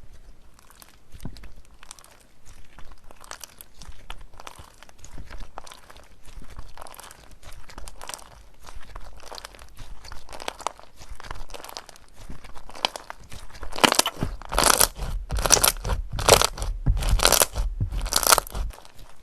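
Crunchy slime being squeezed and pressed by hand, crackling steadily, then a louder run of crunches about two a second from near the end of the first three quarters until shortly before the end.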